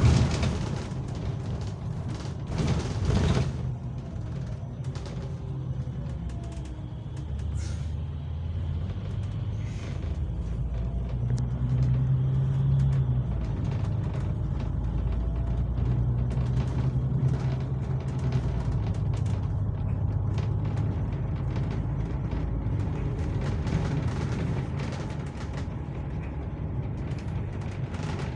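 Bus engine and road noise heard from inside the cabin: a steady low drone whose note shifts as the bus speeds up and slows, with a couple of knocks in the first few seconds.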